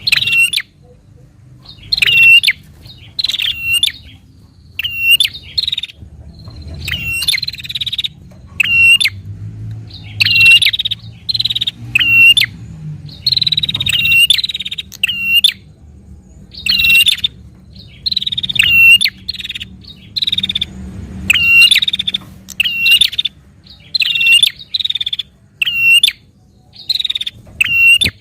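Prinia (prenjak) calling in rapid, agitated bursts: sharp, high chirping calls repeated about once a second, often in quick pairs.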